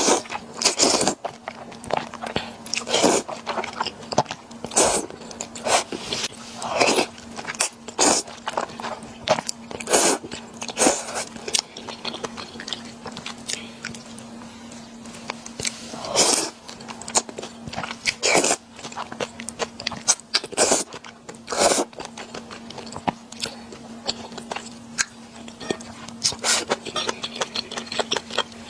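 Close-miked eating: irregular wet chewing, biting and mouth sounds from noodles in a mala sesame sauce, over a faint steady hum.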